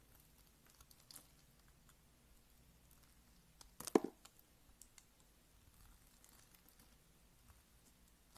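Slime being handled: faint, scattered sticky clicks, with one short, louder squish about four seconds in.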